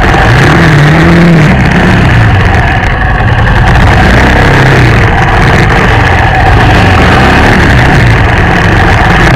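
Motorbike engine running while riding, its note rising and falling several times as the throttle opens and closes.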